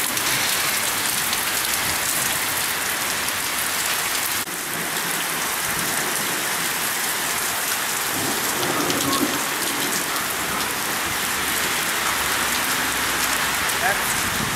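Heavy thunderstorm rain pouring steadily onto pavement and grass, with a low rumble of thunder in the second half.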